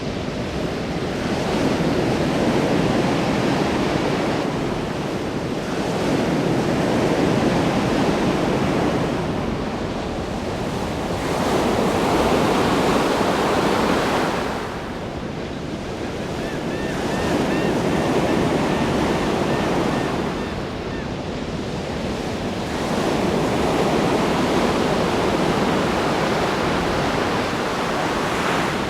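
Ocean waves breaking on a shore, a continuous rush of surf that swells and eases every few seconds.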